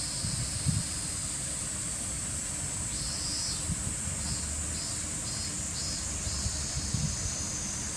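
Outdoor ambience: insects chirping in runs of short pulses, about two or three a second, over a steady high-pitched hiss, with wind rumbling low.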